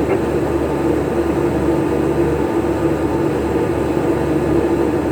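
A shrimp trawler's engine and deck machinery running steadily: a constant mechanical drone with a steady hum.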